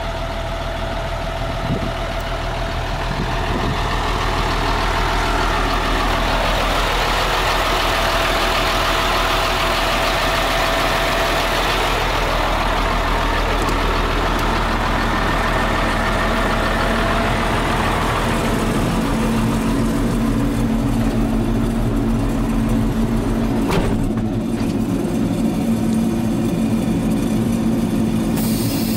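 Diesel engine of a 2003 Sterling L7500 distributor truck running steadily. A broad hiss rises over it for a stretch in the middle, and a stronger low hum comes in about two-thirds of the way through.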